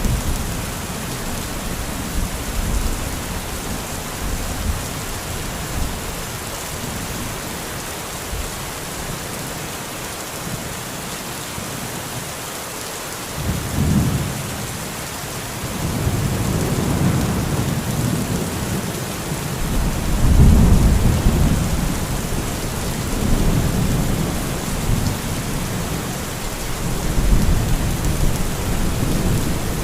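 Steady heavy rain with rolling thunder. Low rumbles build about halfway through and swell again several times, loudest about two-thirds of the way in.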